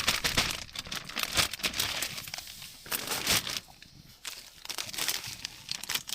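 Wrapping material crinkling and rustling as it is handled, in irregular bursts with sharp crackles, easing off briefly about four seconds in.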